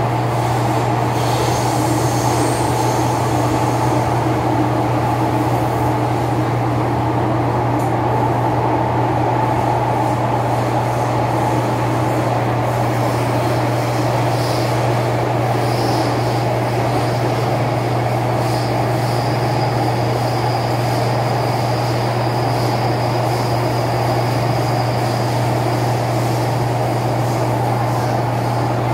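Cabin noise of an MTR M-train electric multiple unit running on the Disneyland Resort Line: a steady low hum and rumble of the running gear on the track. A faint high-pitched tone joins from about halfway through.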